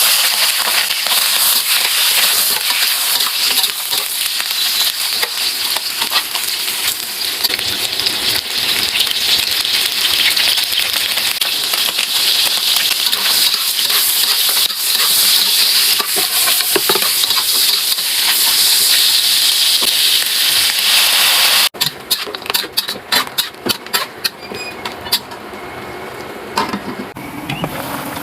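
Food frying in hot oil, a loud steady sizzle that cuts off suddenly about three-quarters of the way through, followed by a run of clicks and light knocks like a utensil against a pan.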